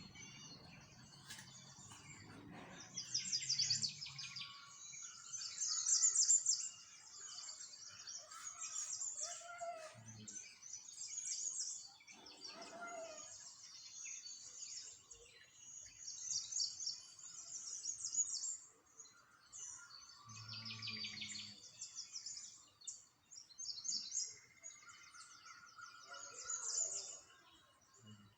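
Small songbirds chirping and trilling, quick high twitters overlapping almost without pause. A faint low rumble comes and goes near the start and again about two-thirds through.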